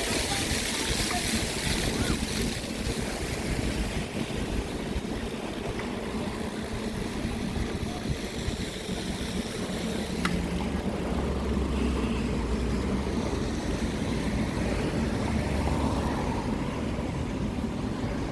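Steady wind rush and low rumble from riding a bicycle, with air buffeting the microphone.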